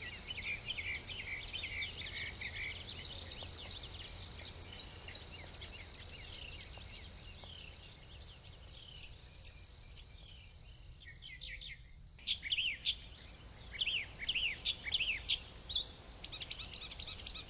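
Outdoor nature ambience: insects trilling steadily while small birds chirp repeatedly. Everything briefly drops out about twelve seconds in, and the chirping comes back busier after that.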